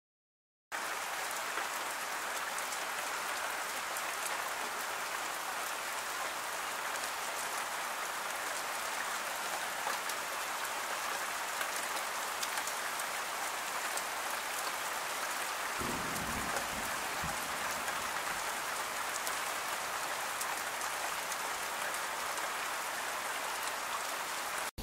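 Steady rain falling on trees and foliage, cutting in abruptly about a second in after silence. A brief low rumble comes about two-thirds of the way through.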